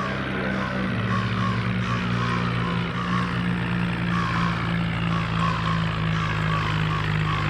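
Diesel engine of a Swaraj 963 tractor running steadily under load, a constant low hum with a faint repeating chirp above it; the engine note shifts slightly about a second in.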